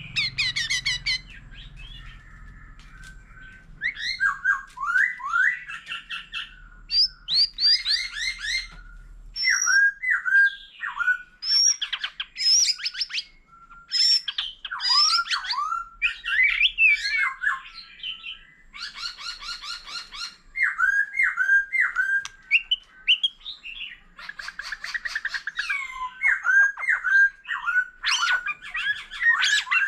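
White-rumped shama singing a long, varied song: short phrases of down-slurred whistles alternate with fast, rattling trills and harsher notes, broken by brief pauses.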